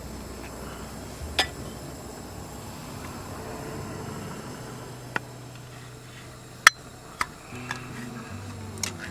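Camp cookware and utensils clinking and knocking: about six sharp, separate strikes spread out, the loudest about two-thirds of the way in.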